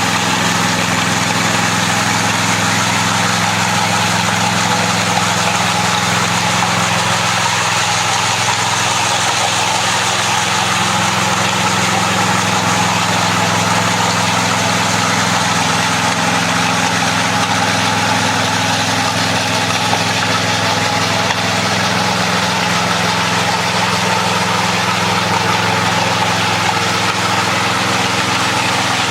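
Power trowel's small engine running steadily as its rotating blades smooth and finish a setting concrete slab.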